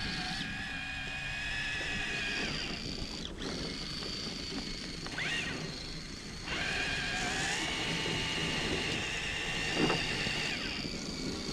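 RC crawler truck's electric motor whining as it drives, its pitch stepping up and down with the throttle.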